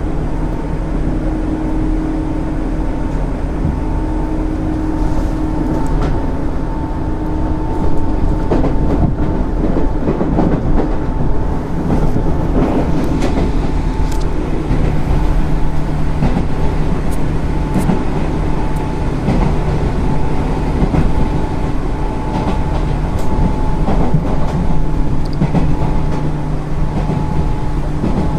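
JR West 205 series 0 electric train running at speed, heard on board: a steady hum from the traction motors over a rumble, with the wheels clicking over rail joints.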